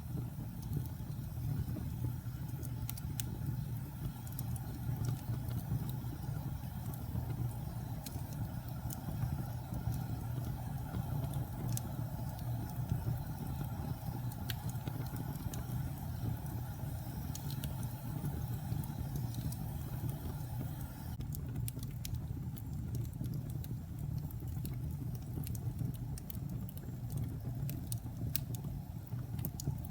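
Wood fire burning in a fireplace: a steady low roar of the flames with scattered small crackles and pops throughout.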